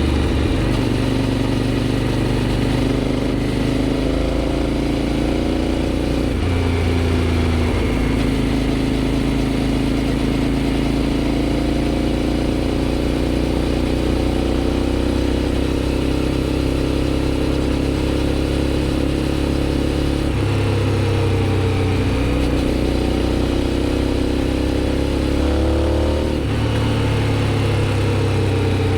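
Aprilia Shiver 750's 90-degree V-twin engine through a GPR aftermarket exhaust, running under way with the revs climbing slowly and dropping back sharply three times: about a quarter of the way in, about two-thirds in and near the end.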